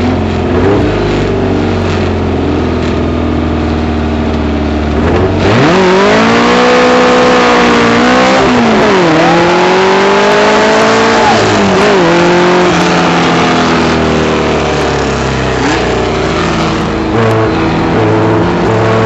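Dune buggy engine heard on board, running at low revs, then accelerating hard about five seconds in. Its pitch drops and climbs again at two gear changes, then it holds more steadily and rises once more near the end.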